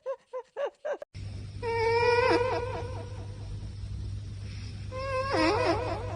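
A cat giving two long, drawn-out meows about three seconds apart, each breaking into a wavering warble at the end, over a steady low hum. A string of short, quick pitched sounds in the first second cuts off before them.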